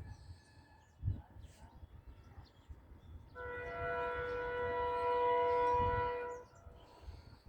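Train horn sounding one steady, multi-toned blast of about three seconds, starting about three seconds in.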